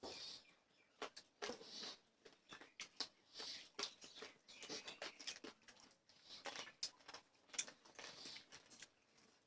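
Close-up eating sounds: chewing and mouth smacking, with many small irregular clicks and soft wet noises.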